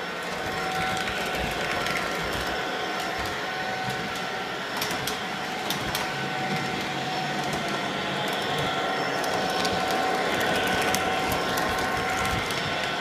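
Lionel O-gauge model locomotive running on O-27 tin-plate track: a steady electric motor whine over the rattle of wheels on the rails, with scattered sharp clicks from the rail joints and switches.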